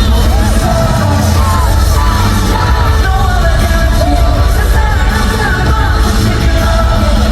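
K-pop song performed live in an arena: singing over loud amplified backing with heavy bass, with fans yelling along.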